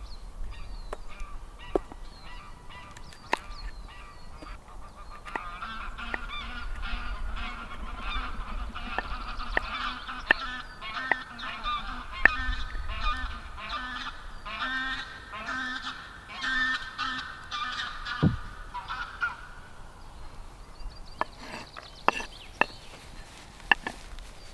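A flock of birds calling together, a chorus of many repeated calls that swells from about five seconds in and dies away at about nineteen seconds, with sharp clicks scattered throughout.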